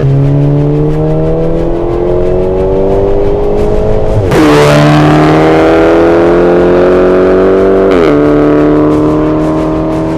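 Volkswagen Golf MK6 GTI's turbocharged 2.0-litre four-cylinder through an Armytrix turbo-back exhaust, accelerating hard: the engine note rises steadily and drops sharply on two upshifts about four seconds apart, with a short burst of noise at the first shift.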